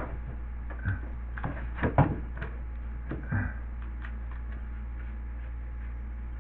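A handful of short knocks and scrapes as a cut piece of drywall is handled and pushed into its opening in the wall, the loudest about two seconds in, then only small ticks over a steady low hum.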